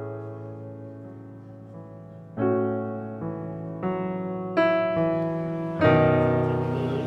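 Background piano music: slow chords, each struck and left to ring away, swelling louder toward the end.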